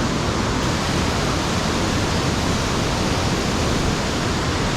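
Mountain stream water rushing steadily: a loud, even noise of flowing and falling water, with no breaks.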